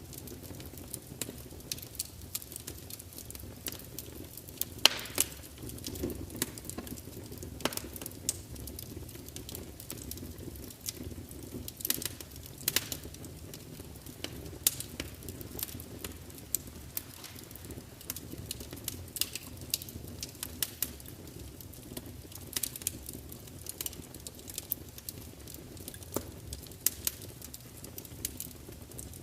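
Wood fire burning in a large open fireplace: a low steady rumble of flames with irregular crackling and spitting, and a few louder pops scattered throughout.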